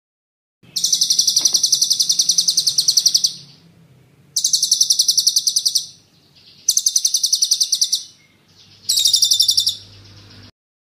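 Songbird singing four bursts of rapid, high, rolling trills, sharp notes repeated about ten times a second. The first burst runs nearly three seconds and the later ones are shorter, and the sound cuts off abruptly near the end.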